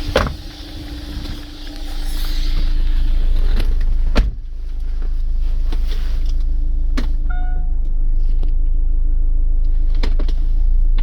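Chevrolet Winstorm SUV with its engine idling, a steady low rumble, with a few sharp clicks or knocks scattered through it and a short beep about seven seconds in.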